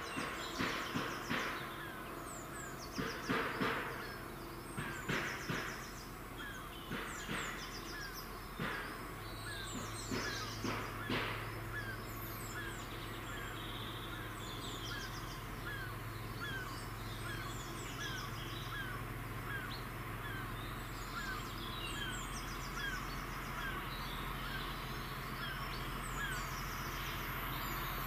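Freight train wagons running past at a distance, their wheels clacking over the rail joints for about eleven seconds and fading. A low steady hum follows, with birds chirping throughout.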